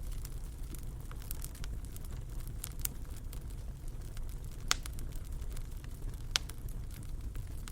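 Fire in a fireplace crackling, with scattered sharp pops over a low steady rumble; two pops about two-thirds of the way through are louder than the rest.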